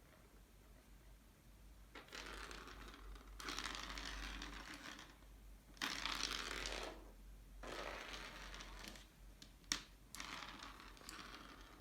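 Rustling and crinkling in several drawn-out bursts, with a single sharp click a little before the end.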